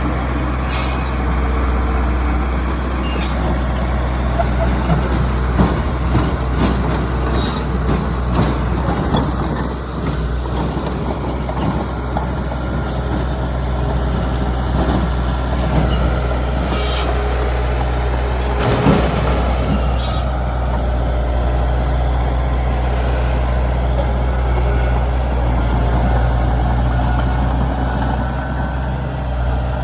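Heavy diesel earthmoving machinery running steadily, with occasional sharp metallic clanks and knocks, most around 5 to 9 seconds in and again near 17 to 20 seconds.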